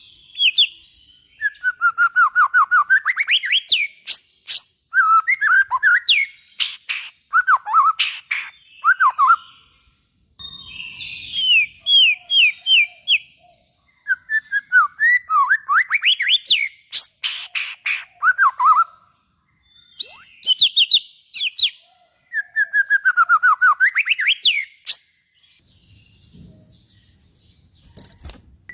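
White-rumped shama (murai batu) singing loudly: rapid runs of repeated whistled notes that slide up and down in pitch, in phrases of one to three seconds with short pauses between them, and a quieter gap near the end.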